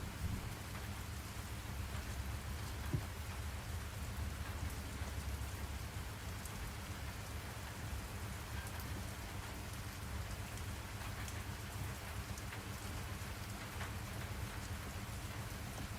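Steady rain falling, with a low rumble underneath and a single brief tap about three seconds in.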